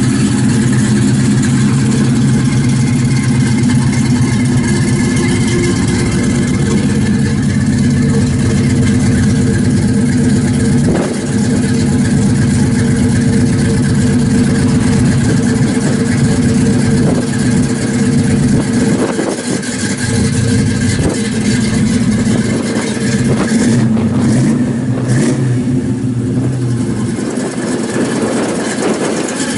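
Rebuilt 327 cubic-inch Chevrolet small-block V8 with a large cam and Edelbrock four-barrel carburettor, running steadily at idle.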